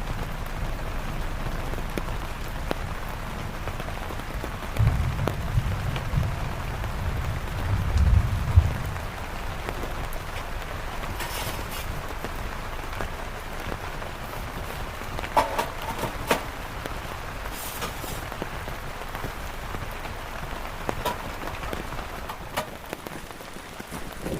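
Steady heavy rain falling, with low rumbles between about five and nine seconds in and a few sharp knocks after the middle.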